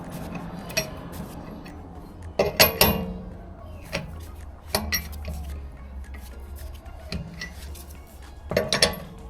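Metal tools clanking and clinking against a car wheel during a tyre change, in a series of sharp knocks with the loudest cluster about two and a half seconds in and another near the end.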